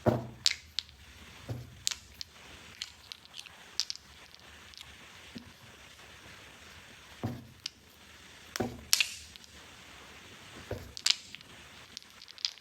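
Small plastic toy pieces and packaging handled close up: scattered sharp clicks and taps, a few with a soft thump, and a brief rustle about nine seconds in.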